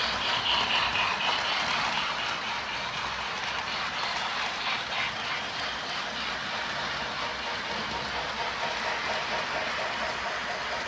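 Lionel O scale toy train running on its track: a steady mechanical running noise, with faint regular clicks in the second half.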